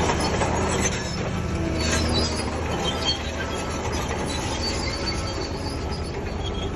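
Crawler bulldozer's diesel engine running steadily, with its steel tracks squealing.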